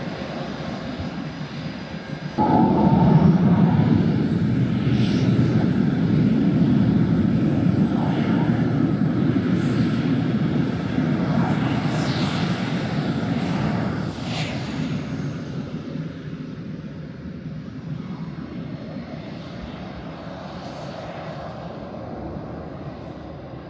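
F/A-18 Hornet jet engines running on the ground while taxiing out after a hot refuel. About two seconds in the rushing engine noise jumps sharply louder, then it slowly fades over the last ten seconds.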